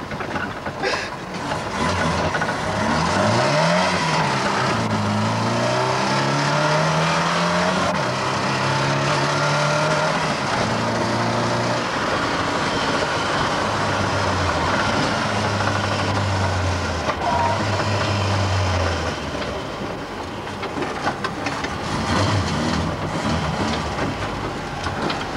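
Mk1 Ford Escort's engine heard from inside the cabin, accelerating through the gears: its pitch climbs and drops back at each gear change over the first ten seconds or so, then holds steady before easing off near the end.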